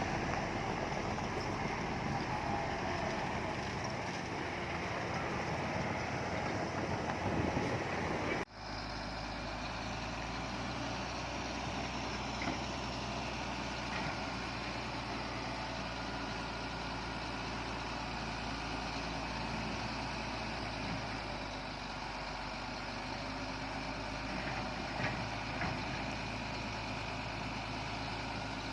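Heavy diesel earthmoving machinery running. About eight seconds in the sound breaks off abruptly and resumes as a steadier engine drone.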